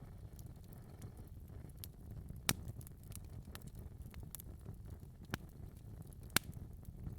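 Wood fire crackling in a fireplace: a low steady rumble of burning with scattered sharp pops and snaps, two loudest about two and a half and six and a half seconds in.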